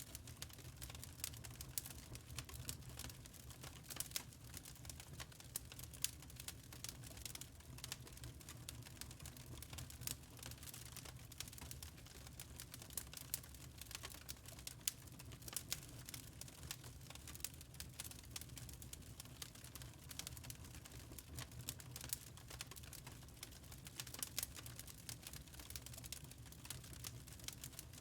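Wood fire crackling: many small irregular pops and snaps over a low steady rumble of the burning.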